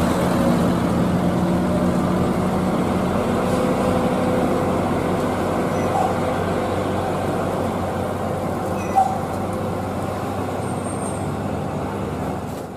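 Heavy truck engine running amid steady road traffic noise, with a short sharp click about nine seconds in; the sound fades away at the end.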